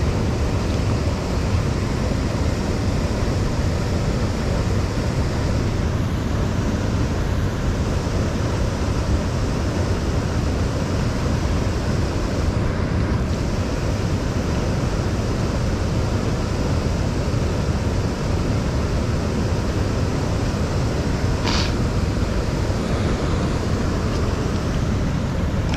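Steady rushing noise of river water and wind on the microphone, with one brief higher sound about twenty-one seconds in.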